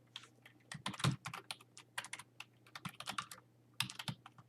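Typing on a computer keyboard: a quick, uneven run of key clicks with a brief pause about three and a half seconds in.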